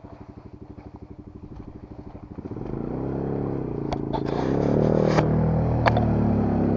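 Enduro motorcycle engine idling with a rapid, even putter, then revving up and down and getting louder from about two and a half seconds in. A few sharp clacks come over it near the middle and later.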